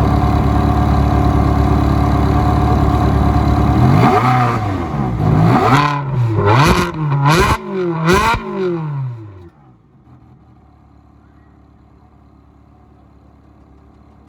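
A car engine running loudly at a steady speed, then revved up and down several times before it cuts off suddenly about two-thirds of the way through, leaving a faint low hum.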